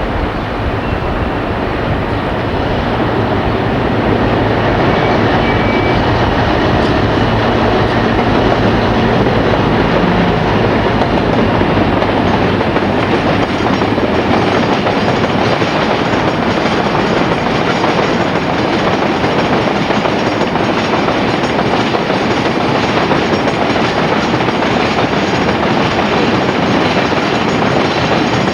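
Train running on the rails with a steady clickety-clack of wheels over rail joints. The noise builds over the first few seconds and then holds steady.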